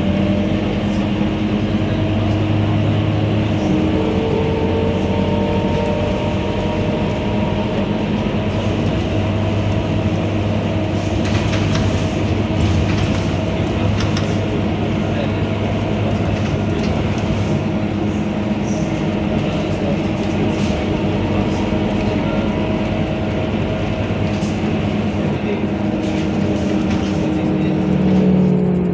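Scania K230UB bus's five-cylinder diesel engine running at a steady note under way, with scattered clicks and rattles between about 11 and 15 seconds in. Near the end the engine note drops as the revs fall.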